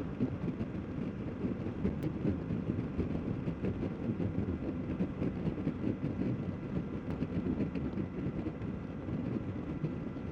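Suzuki Boulevard C50T V-twin cruiser ridden at road speed: a steady low rumble of engine and wind buffeting the rider's microphone.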